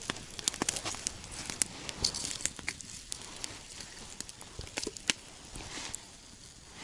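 Campfire crackling: irregular sharp snaps and pops from burning wood, with short bursts of hiss.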